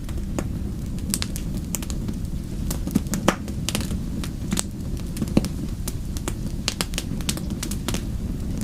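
Wood fire crackling: irregular sharp pops and snaps over a steady low rumble of the flames, with a couple of louder pops about three seconds and five and a half seconds in.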